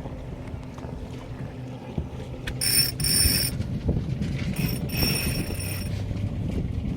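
Sailboat rigging working: line running through a pulley block, with two high squeals about three and five seconds in, over a steady low hum.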